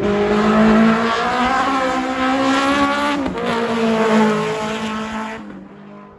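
Race car engine running at high revs, its pitch dipping briefly about three seconds in and climbing back, then fading out about five seconds in.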